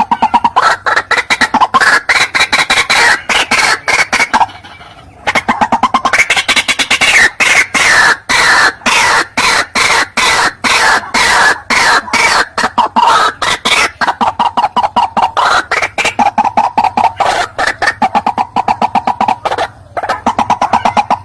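White-breasted waterhen (ruak-ruak) call used as a trapping lure: a loud, fast run of repeated clucking notes, several a second, that breaks off briefly about five seconds in and then resumes.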